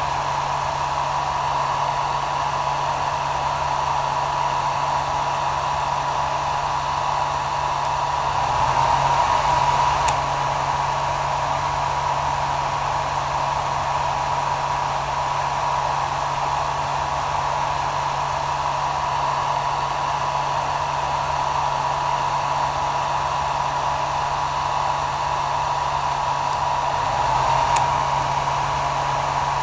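Hair dryer running steadily: an even rush of air over a steady motor hum. The sound swells slightly twice, about a third of the way in and near the end, each time with a faint click.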